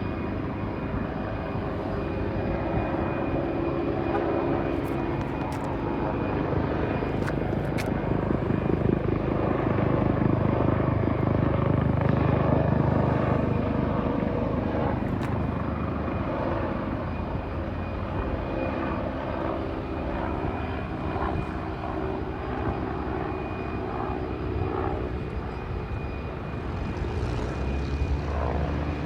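Fire department helicopter coming in to land: a steady rotor thrum with a high turbine whine, growing louder to a peak about ten to thirteen seconds in, then easing off a little.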